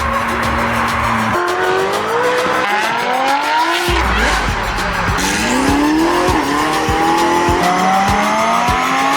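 Supercar engine accelerating hard through several gears, its note climbing steadily and dropping back at each upshift, about five times.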